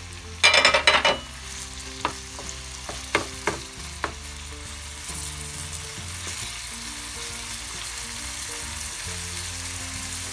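Marinated chicken pieces sizzling in olive oil in a nonstick frying pan, stirred with a wooden slotted spatula that scrapes and knocks against the pan several times in the first four seconds, loudest about half a second in. The sizzle grows a little brighter from about five seconds in.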